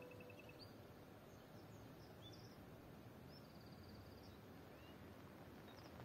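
Faint, scattered bird chirps and a few short trills over a low, even background hiss.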